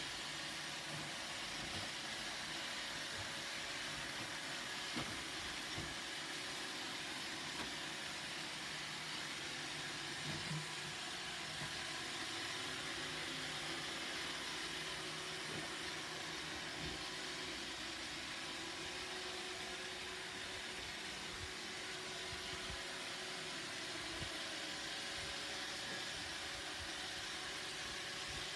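Roomba robot vacuum running steadily, its motor and suction fan making an even whirring hiss, with a few light knocks about five and ten seconds in.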